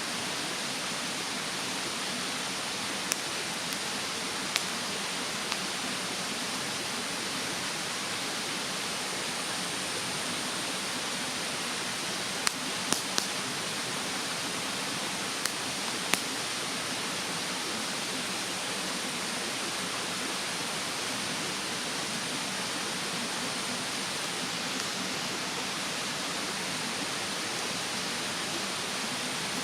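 Wood campfire crackling, with a handful of sharp pops mostly in the first half, over the steady rushing of a mountain stream.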